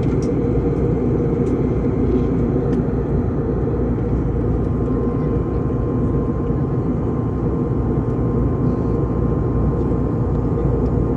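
Steady cabin noise of a passenger airliner in flight: an even, unbroken low rumble.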